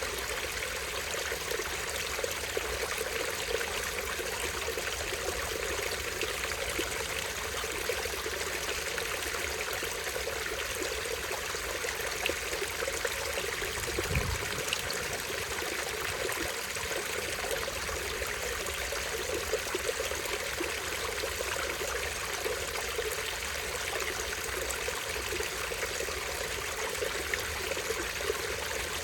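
Small stream running over a tiny waterfall: a steady splashing and trickling of water with no let-up. A brief low thump about halfway through.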